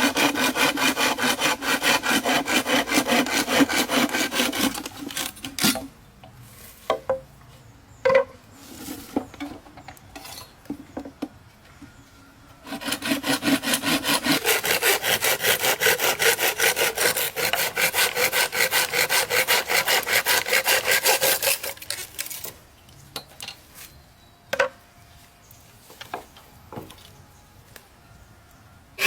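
Hand saw cutting wood in quick, even back-and-forth strokes. There are two long spells of sawing, with a pause of scattered knocks and taps between them and after the second.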